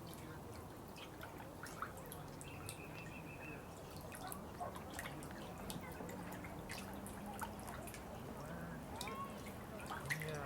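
Water dripping and trickling: irregular small drops over a low steady hum.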